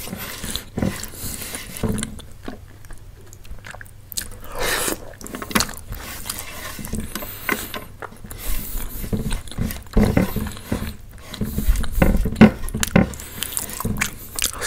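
Close-up chewing and biting of food, with irregular wet mouth sounds and clicks that grow louder and busier in the second half.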